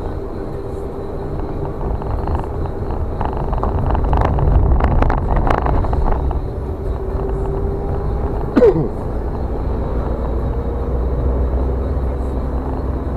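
Car driving slowly over a rough road, heard from inside: a steady low rumble of tyres and engine, with a run of knocks and rattles about four to six seconds in and one short squeak that falls in pitch at about eight and a half seconds.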